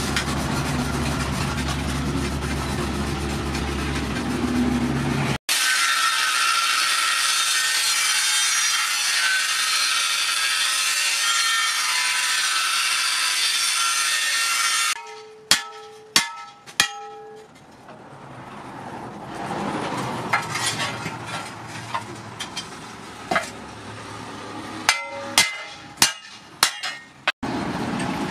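Brush scrubbing rust off a steel tractor disc plough blade, then an angle grinder cutting through the disc steel for about ten seconds. Several ringing metallic clanks follow, then scattered knocks and clicks, and a steady low rumble starts near the end.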